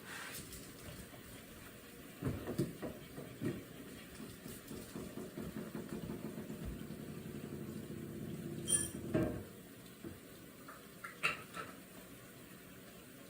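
Kitchen sounds during food preparation: a few knocks and clatters of dishes, then a steady low mechanical hum for about four seconds that cuts off sharply, with a brief high beep just before it stops and a couple more knocks near the end.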